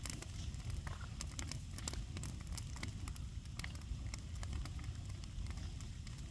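Bonfire of old fence timber crackling, with frequent irregular sharp pops over a steady low rumble.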